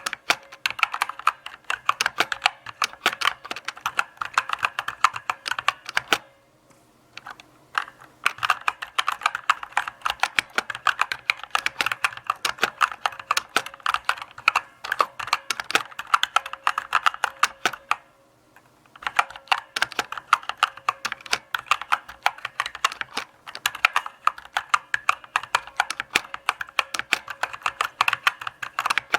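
Typing on a mechanical keyboard: a steady run of key clicks, broken by two short pauses, about six seconds in and again about eighteen seconds in.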